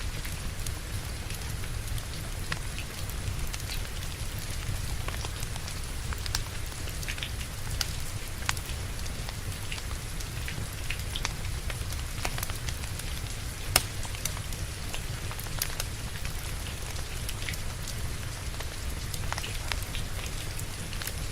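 Steady rain with a wood fire crackling, sharp pops scattered irregularly through it, one louder pop a little before the middle.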